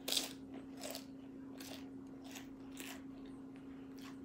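Tortilla chips from a plate of nachos crunching as they are chewed with the mouth close to the microphone, a string of short crunches about one a second, the first the loudest.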